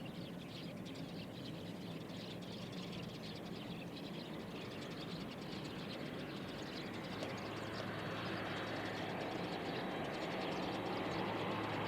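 Distant jet airliner engine noise that swells steadily louder in the second half as the aircraft draws nearer, with a steady low hum. Birds chirp faintly over it early on.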